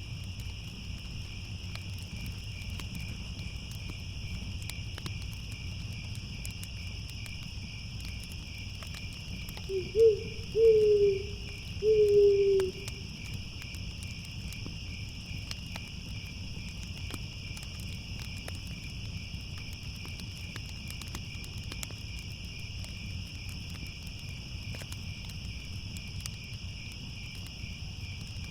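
A steady night chorus of crickets chirring throughout, with an owl hooting about ten seconds in: four hoots in quick succession, the last two longer and falling slightly in pitch.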